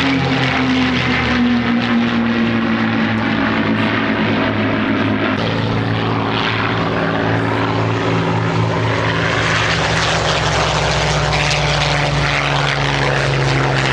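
P-51D Mustangs' Merlin V12 piston engines running as the formation flies past, the engine note sliding down in pitch over the first few seconds, then holding steady.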